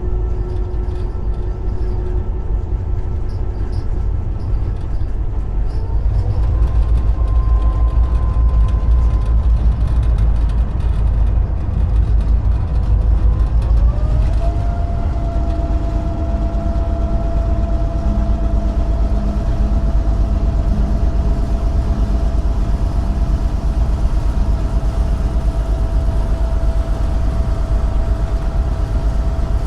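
Inside the cab of a GP38-2 diesel locomotive: its EMD 16-645 two-stroke V16 engine runs under load with a steady low rumble. Its whine rises in pitch twice, about six seconds in and again about fourteen seconds in, as the engine speeds up, and begins to drop right at the end.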